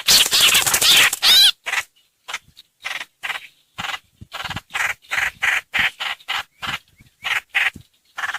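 Harsh chattering calls of the bird called trao trảo in Vietnamese: a loud outburst in the first second and a half, then a run of short, rasping notes about two a second.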